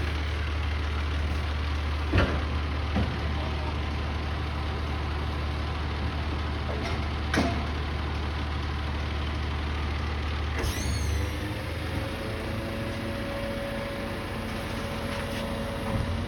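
Garbage truck's diesel engine running steadily, with a couple of sharp metal knocks. About ten and a half seconds in there is a short hiss of air, and the engine drone then drops lower.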